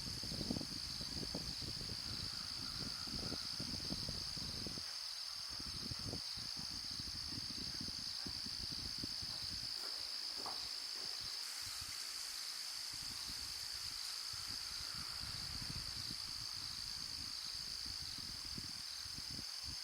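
Steady high-pitched chorus of insects, typical of crickets, with an irregular low rumble underneath and a single brief faint chirp about halfway through.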